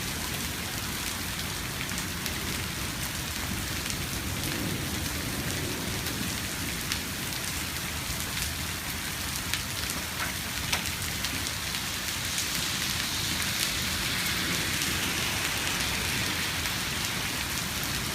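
Hail falling steadily: a dense hiss with many small sharp ticks of hailstones striking.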